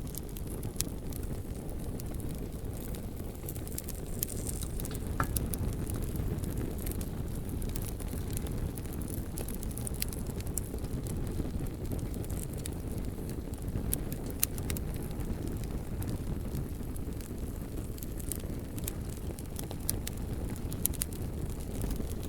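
Bonfire burning, a steady low rumble of flames with scattered sharp crackles and pops from the burning wood.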